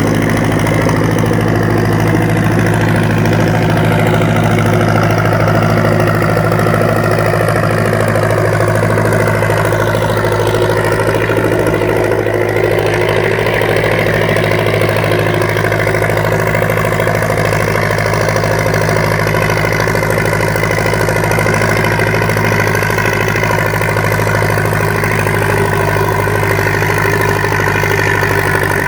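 International Super WD-9 tractor's four-cylinder diesel engine running steadily, with an even, unchanging note.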